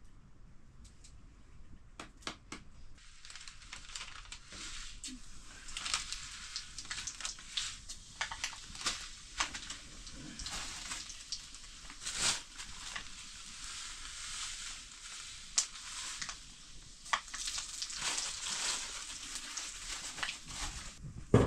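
Food frying in a pan, a steady sizzle with frequent sharp pops that builds in about three seconds in.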